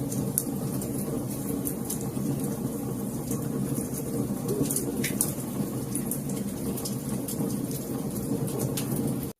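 Fireplace fire crackling: a steady low rumble of flames under frequent sharp pops and snaps. The sound cuts out for an instant near the end.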